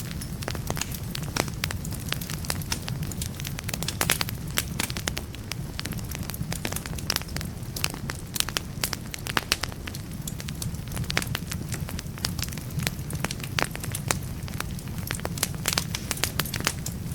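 Wood fire burning in a fireplace, a steady low rumble of flame with frequent sharp, irregular crackles and pops from the burning logs.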